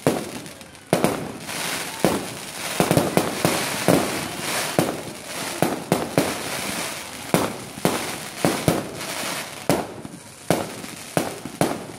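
Aerial fireworks going off: many sharp bangs in quick, irregular succession with crackling between them, densest through the middle.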